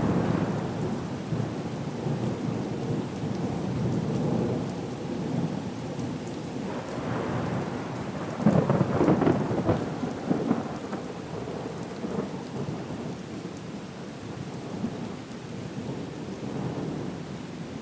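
Storm ambience: steady rain with rolling rumbles of thunder that swell and fade, the loudest about halfway through.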